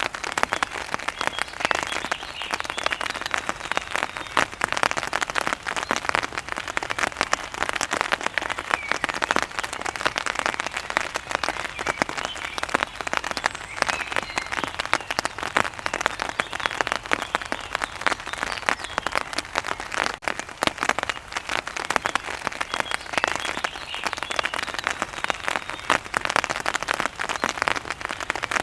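Steady rain: a dense, even patter of drops hitting a surface.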